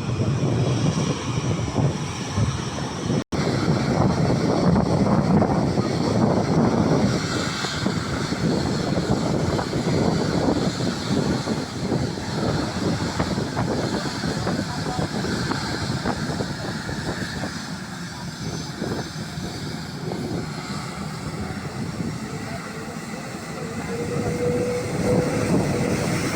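Jet airliner's engines rumbling loudly as it passes the runway, loudest a few seconds in and easing later, with a faint steady whine near the end. The sound drops out for a split second about three seconds in.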